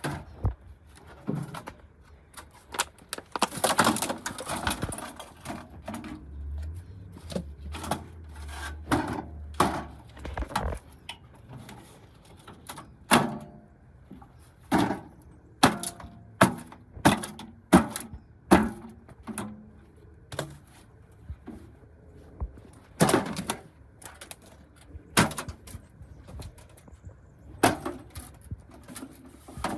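Hamilton Beach microwave oven being smashed: a long run of hard, irregular blows, sometimes in quick clusters.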